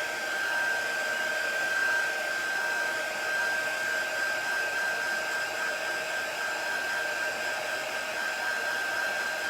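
Hand-held blow dryer running steadily, its rush of air carrying a steady high whine, used to dry chalk paste.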